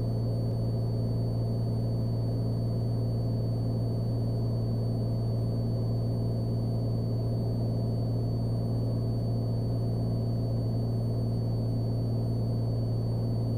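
Cessna Skylane's piston engine and propeller droning steadily in the climb, heard from inside the cockpit: an even low hum with no change in pitch.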